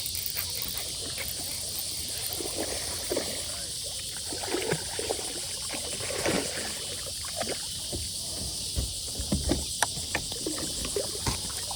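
A steady high insect chorus of crickets, with scattered light knocks, rustles and small water sounds from a kayak being moved and handled.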